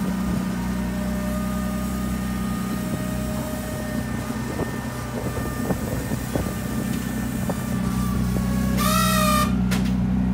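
A vehicle engine idling steadily, with a faint steady whine above it. A brief high, wavering squeal comes about nine seconds in.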